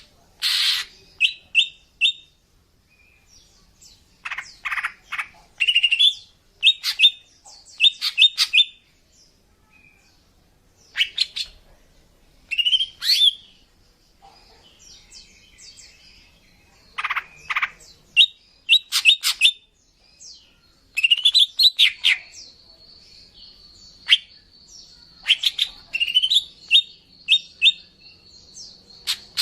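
Female greater green leafbird (cucak ijo) calling: bursts of short, quick high chirps and trills, a few notes at a time, with pauses between the bursts. A thin steady high tone runs under the calls in the last third. These female calls are used to lure male leafbirds.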